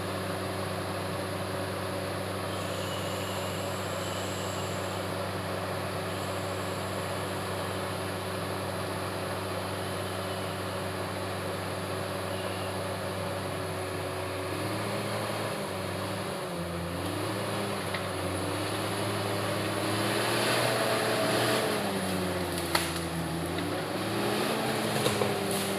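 Komatsu D68ESS bulldozer's diesel engine running steadily, then its engine speed rising and falling from about halfway through. Two sharp clanks near the end.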